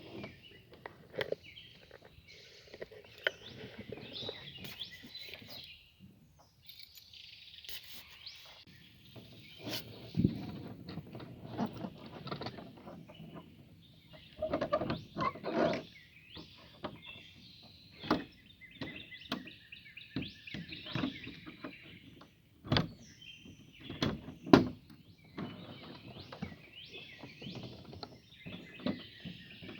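Birds chirping in the background, with scattered knocks and clunks from things being handled close by. The loudest knock comes near the end.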